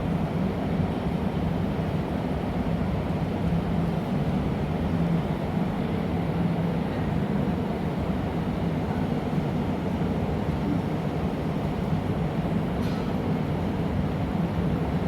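Gas-fired glassblowing furnace and burners running, a steady low noise with no break or change.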